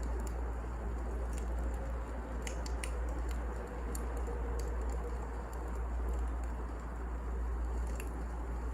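Wood fire crackling: scattered sharp pops and snaps, a cluster about halfway through, over a steady hiss and low rumble.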